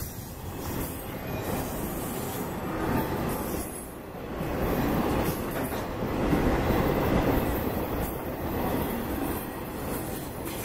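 Intermodal freight train cars, double-stack container well cars and trailer-carrying flatcars, rolling past at speed: a steady rumble of steel wheels on rail, growing louder about halfway through.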